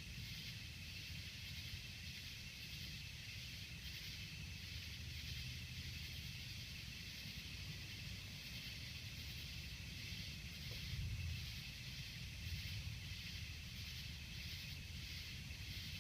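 Faint distant thunder: a low rumble that swells briefly about eleven seconds in, over a steady, evenly pulsing high hiss.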